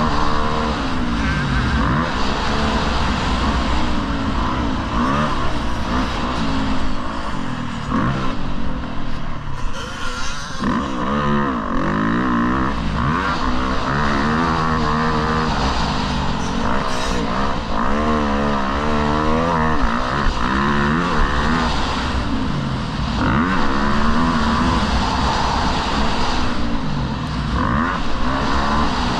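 Motocross bike engine revving up and down over and over, its pitch climbing and dropping every second or two as the throttle opens and closes.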